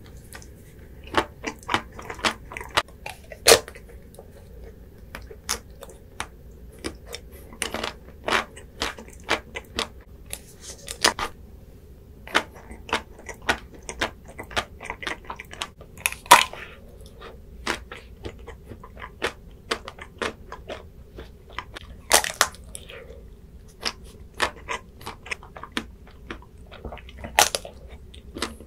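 Close-miked biting and chewing of chocolate-coated ice cream bars: irregular sharp cracks of the hard chocolate shell breaking, over soft mouth sounds, with short pauses between bites.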